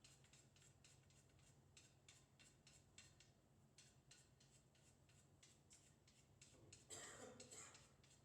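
Near silence: faint room tone with a steady low hum and many scattered faint clicks, and a short louder rustle about seven seconds in.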